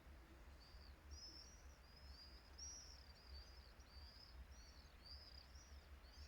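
Small birds chirping faintly and repeatedly, short high arched chirps about twice a second, over a low rumble of wind on the microphone.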